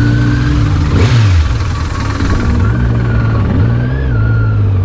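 Road vehicle engine running, its pitch falling about a second in and rising again around two and a half seconds, with a thin high whine over it.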